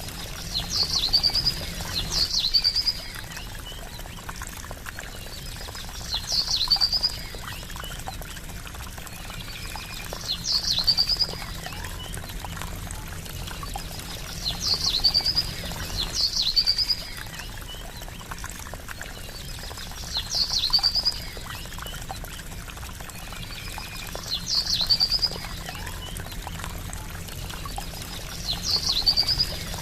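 Gently trickling, babbling water runs steadily. A small bird's short, high chirping call sounds over it roughly every four seconds, sometimes twice in quick succession.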